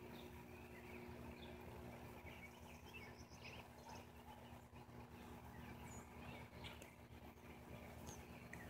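Near silence outdoors: faint, scattered bird chirps over a low steady hum.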